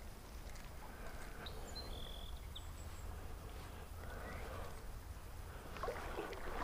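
Faint creekside outdoor background: a steady low rumble, a few short high bird chirps about one and a half to three seconds in, and a scratchy rustle near the end.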